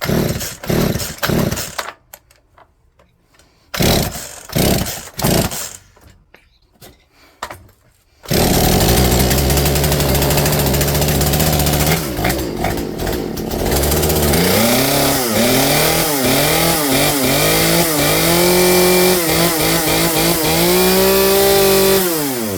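Poulan P3416 34cc two-stroke chainsaw being pull-started with short rasping tugs of the recoil starter that don't catch, then starting about eight seconds in and running. From midway it is revved up and down repeatedly, then falls away and dies near the end: the new carburetor gives a good high speed but the saw won't idle.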